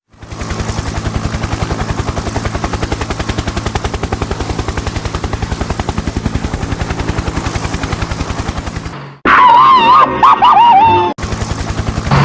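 A rapid, even rattle of about ten beats a second over a low hum, like a small engine or machine-gun effect, which stops abruptly about nine seconds in. It is followed by a loud warbling tone that wavers up and down, like a siren or horn effect.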